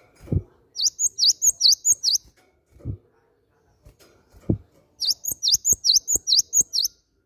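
Cinereous tit (gelatik batu) singing two runs of quick, repeated high notes, about five a second, the first run about a second in and the second about five seconds in. A few low thuds fall before and between the runs.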